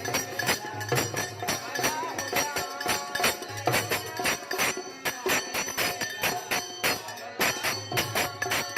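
Purbi folk song music with a steady, fast percussion beat.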